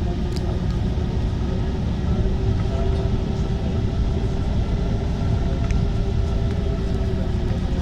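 Alstom MP 05 rubber-tyred metro train running between stations: a steady low rumble with a constant motor hum and a few faint clicks.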